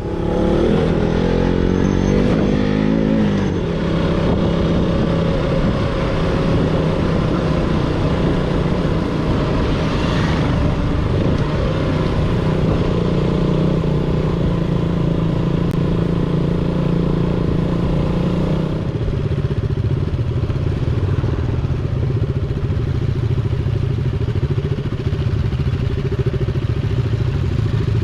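KTM Duke's single-cylinder engine under way: the revs rise over the first few seconds, then it runs at a steady pitch, dropping lower about two-thirds of the way through.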